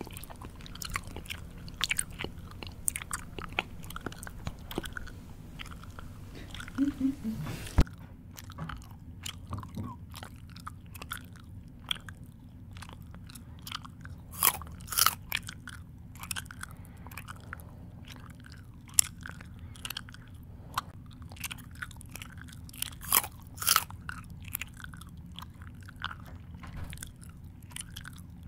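A person chewing food close to the microphone: irregular crisp crunches and wet mouth smacks, with a few louder bites about halfway through and again near the end.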